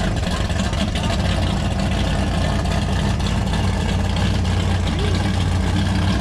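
A car engine idling steadily, with an even low hum and no change in speed.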